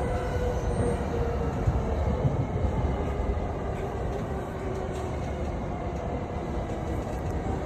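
Chuo-Sobu Line local commuter train running between stations: a steady rumble of wheels on rails and running noise, a little quieter in the second half.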